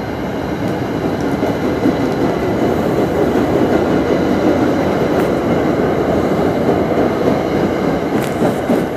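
MBTA commuter rail passenger coaches rolling past along the platform: a steady rumble of wheels on rail, a little louder in the middle, with a few faint clicks.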